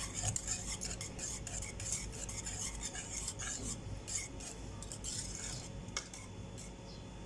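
A utensil stirring a cream filling in a pan on low heat, continuously scraping and clinking against the pan.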